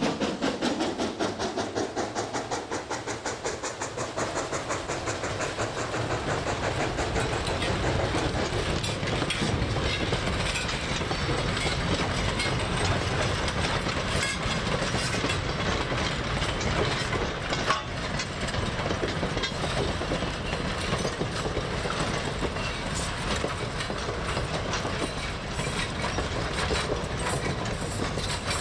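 Train rolling past close by, with a fast, even clatter of wheels over the rails in the first few seconds and then a steady rumble.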